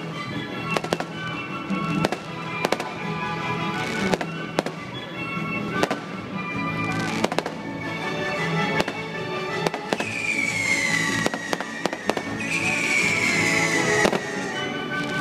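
Fireworks bursting in a string of sharp bangs over the show's music. Two long whistles fall in pitch in the last few seconds.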